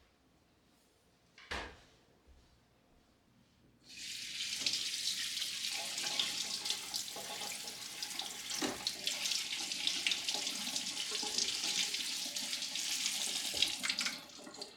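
Kitchen tap turned on and running into a sink for about ten seconds, with a few light knocks of things in the sink, then shut off. A single knock comes shortly before the water starts.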